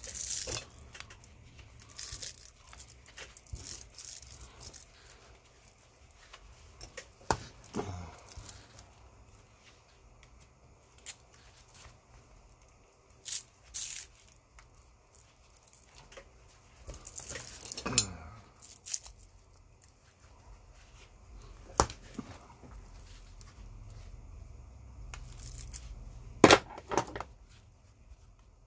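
Hand tools working a massager's metal parts loose while it is taken apart for scrap: scattered scraping, prying and tearing noises with sharp clicks and knocks, the loudest a few seconds apart.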